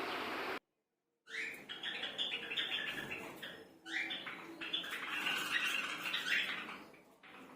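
A steady hiss cuts off abruptly, and after a moment of silence a flock of aviary cage birds starts chirping and squawking, with two rising calls among the chatter before it fades near the end.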